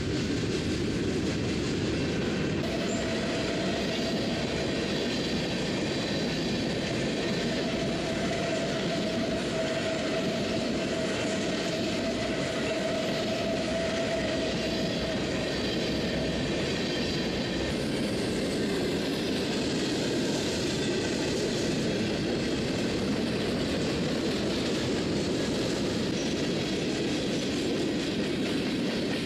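Freight train rolling past at track side, a steady rumble with wheels clacking over the rails. A thin steady squeal rides over it from about three seconds in until about halfway through.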